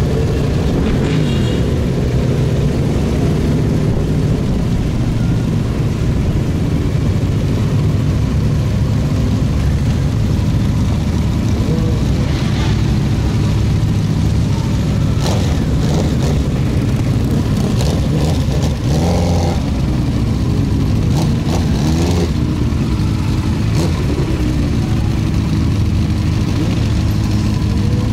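Yamaha XT1200Z Super Ténéré's parallel-twin engine running steadily under way.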